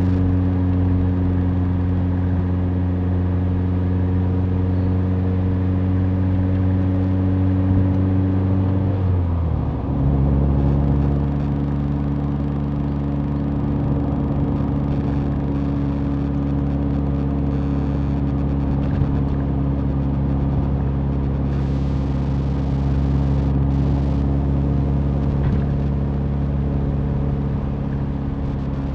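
Mazda Roadster's four-cylinder engine running at a steady cruise over road and tyre noise. About nine seconds in, the engine note drops to a lower pitch, then holds steady again.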